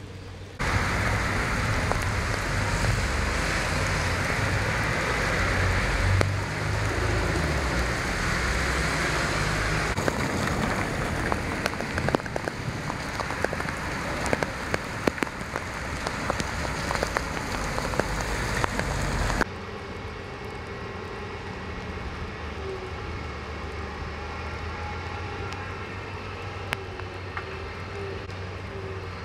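Heavy thundershower rain pouring down and spattering on wet road and standing water, with fine patter of drops through it. About two-thirds of the way in, it cuts to a quieter, steadier fall of rain.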